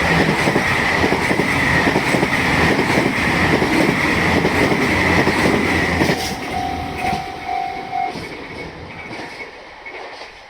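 A train running through the station on the rails, loud with wheel clatter, then fading away from about six seconds in. As it fades, a short repeated ringing tone from the level-crossing alarm can be heard.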